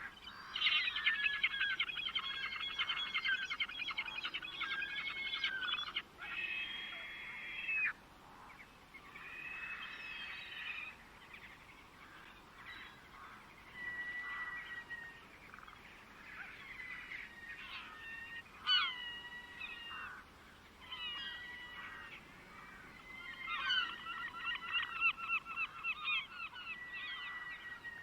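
Birdsong: birds calling, with a fast rattling chatter for the first six seconds and again near the end, and short whistled notes and slurred calls in between.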